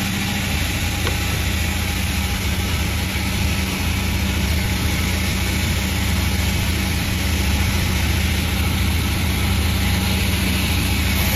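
Panda36 sawmill machine running steadily, a continuous low mechanical drone.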